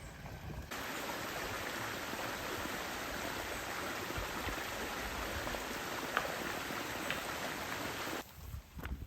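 Steady rush of running water, cutting in abruptly just under a second in and cutting off about a second before the end.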